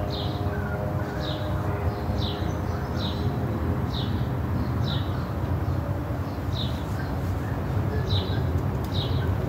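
A small bird chirping repeatedly, about once a second, each chirp a short falling note, over a steady low rumble.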